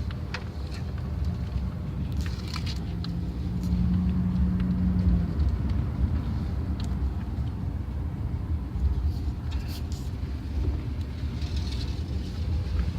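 Pickup truck driving slowly, its engine and road rumble heard from the open truck bed, with scattered light ticks and a short steady hum about three to five seconds in.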